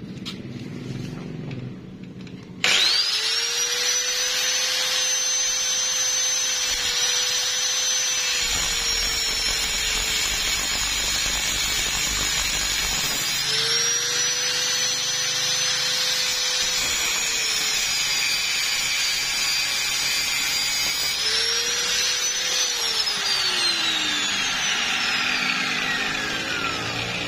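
Electric angle grinder cutting open a steel wheel bearing: it starts about three seconds in with a high whine, its pitch sagging at times as the disc bites into the metal, and winds down with a falling pitch near the end.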